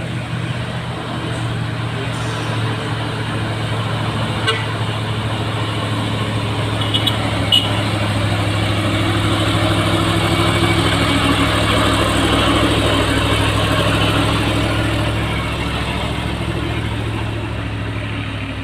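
A truck's engine running as it passes on the climb, growing to its loudest about ten to thirteen seconds in and then fading. A couple of short toots come about seven seconds in.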